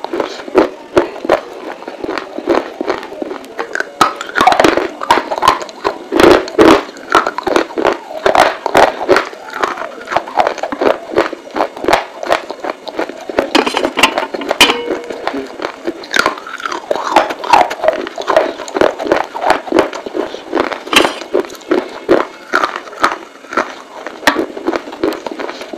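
Close-miked chewing of hard baked clay pieces: many sharp crunches and clicks in quick succession as the clay is bitten and ground between the teeth.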